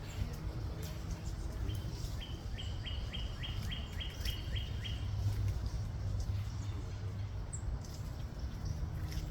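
A bird calling a quick run of about eleven short, high notes, some three a second, each dipping in pitch at its end, starting about two seconds in. Under it is a steady low rumble of background noise.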